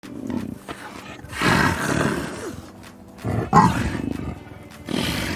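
Big cat roaring: a long roar, then two shorter ones with pauses between.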